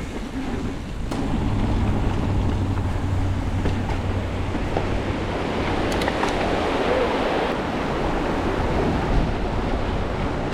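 A mountain bike rolling fast along dirt singletrack: a steady rush of wind on the microphone, with the tyres rumbling over the trail.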